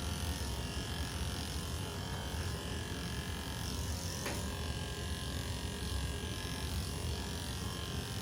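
Electric pet clippers running steadily, shaving the fur on a cat's belly.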